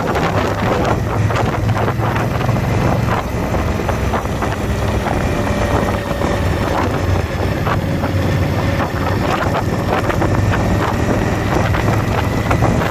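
Motorcycle V-twin engine running steadily at cruising speed, with heavy wind noise buffeting the microphone.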